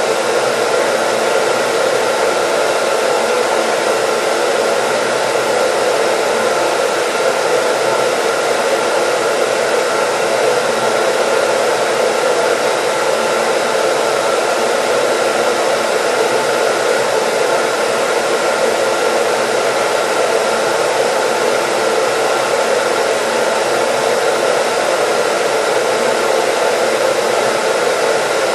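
Hair dryer running steadily: an even rush of blown air over its motor, with a few faint steady whining tones and no change in level.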